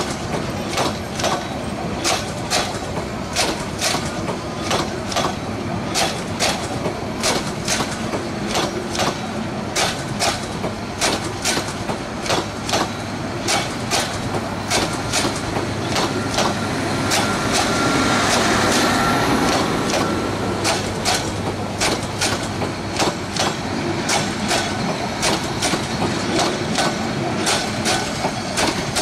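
Passenger train coaches rolling past at close range, their wheels clicking over the rail joints in a steady, repeating clickety-clack over a constant rumble, which swells for a few seconds around the middle.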